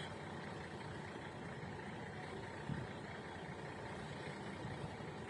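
Steady rumble and hiss of an idling vehicle engine, with one small knock about three seconds in.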